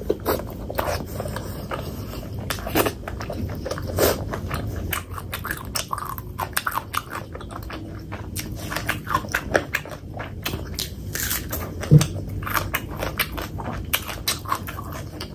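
Close-miked chewing and biting of fatty pork belly curry with rice: dense, irregular wet clicks and smacks from the mouth. Once, about twelve seconds in, there is a single sharp low thump.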